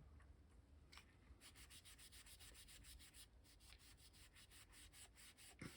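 Near silence, with faint irregular rubbing and rustling of paper being handled on a craft desk.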